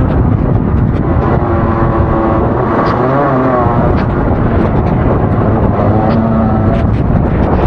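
Rotax two-stroke kart engine running hard on track, its pitch falling and rising again several times as the driver lifts and gets back on the throttle through corners, with short clicks and crackles over the top.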